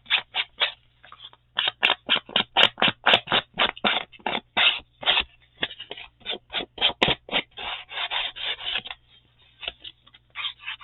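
Ink blending tool scrubbed on paper in quick, even strokes, about three or four a second, pausing briefly about a second in and turning into a denser scrubbing near the end.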